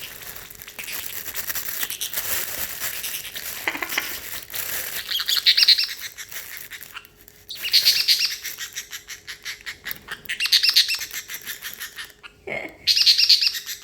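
A parrotlet chattering excitedly in four bursts of rapid, high chirps about two and a half seconds apart, while a plastic bag rustles.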